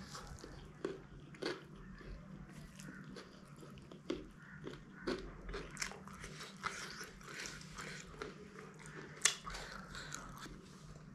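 A person chewing a mouthful of food with irregular wet mouth clicks and smacks, and one sharper click about nine seconds in.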